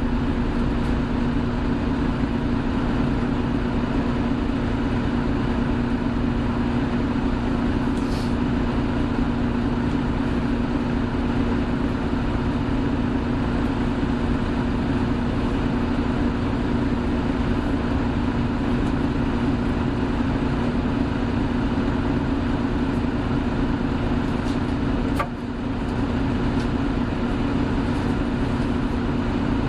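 Hino Blue Ribbon City Hybrid bus (BJG-HU8JLFP), heard from inside: its diesel-hybrid drivetrain running with a steady, even hum. A brief click with a momentary drop in level comes near the end.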